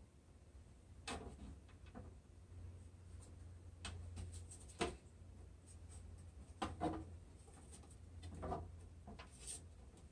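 Scattered light knocks, clicks and scrapes of wooden birdhouse parts being handled and fitted together, with a sharper knock about five seconds in and a couple more near seven seconds, over a low steady hum.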